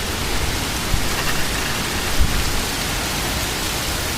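Heavy rain in a severe thunderstorm, a steady hiss driven by gusting straight-line winds, with a couple of brief low thumps about one and two seconds in.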